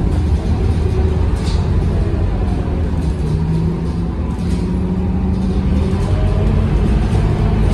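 Scania K230UB city bus's diesel engine running under way: a steady low drone whose note shifts in pitch, with a few brief hisses.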